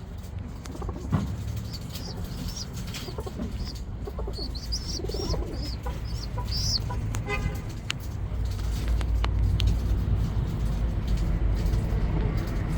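Small birds chirping in short high notes for a few seconds over a steady low rumble, which grows louder in the second half. A quick rattling run of ticks comes about seven seconds in.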